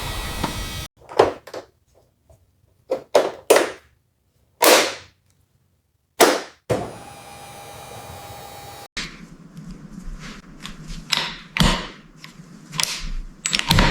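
A series of sharp snaps and clicks cut together with silent gaps between them, then a steady hiss with a faint steady tone for about two seconds, followed by a busier run of clicks and knocks.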